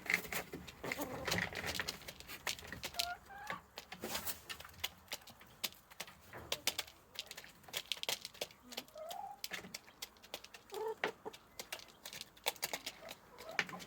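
Domestic chickens clucking, with short scattered calls, some of them rising in pitch. Many sharp clicks and taps run among the calls.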